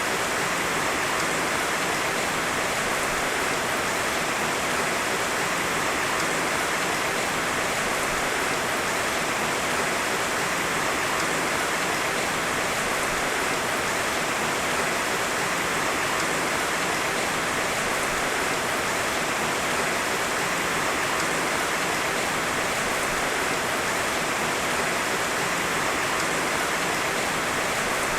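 Heavy, steady rain, a dense even hiss with no thunder and no change in level.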